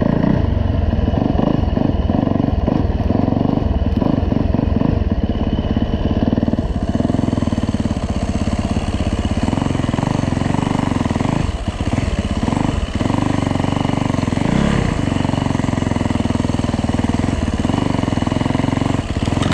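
2009 Yamaha YZ450F's single-cylinder four-stroke engine running at low revs in first gear while the bike is ridden, pulling steadily with the throttle eased briefly twice about twelve seconds in.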